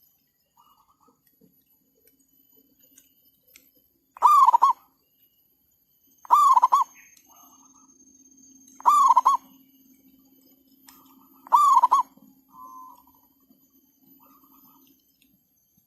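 Zebra doves calling: four loud, short cooing calls about two and a half seconds apart, with fainter answering calls in between.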